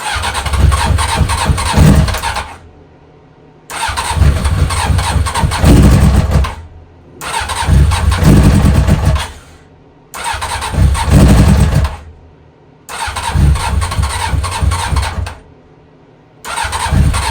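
1997 Honda CBR900RR Fireblade's inline-four engine turning over on its electric starter in about six bursts of two to three seconds with short pauses between, without catching.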